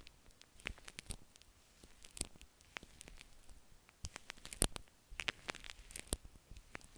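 Shaving cream foam being worked against an earphone microphone, heard close up as irregular soft clicks and crackles, a little busier past the middle.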